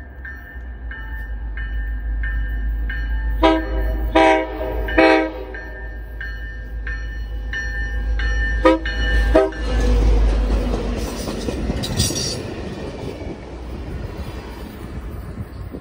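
Diesel commuter-rail locomotive approaching and passing at speed, its bell ringing about one and a half times a second while its air horn sounds three blasts, then two short toots. From about ten seconds in, the loud rumble and wheel noise of the passing locomotive and FRA inspection car take over, then ease off.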